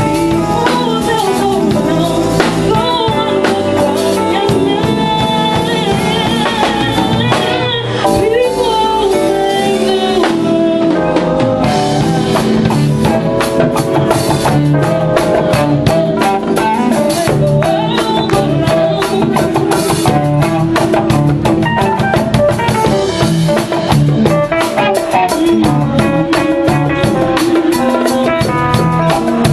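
A band playing a slow soul song, with drum kit, bass and keyboards and a vocal line.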